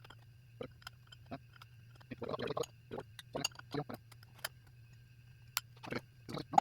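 Parts of an automatic transmission being handled during hand assembly: scattered short metallic clicks and knocks, a brief scraping rustle about two seconds in, and one sharp click at the end, over a steady low hum.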